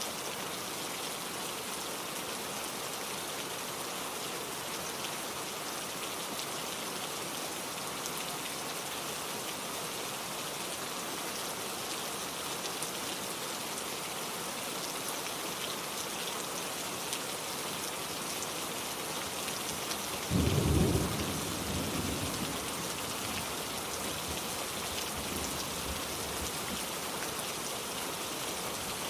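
Steady heavy rain falling, with a single sharp thunderclap about two-thirds of the way through that rumbles and dies away over a couple of seconds.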